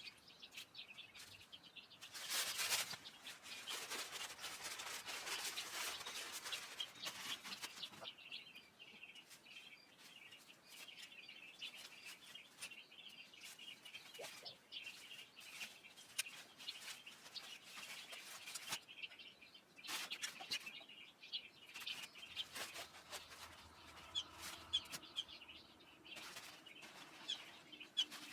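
Small birds chirping repeatedly, with a louder stretch of rustling noise lasting several seconds near the start and a shorter burst of it about two-thirds of the way through.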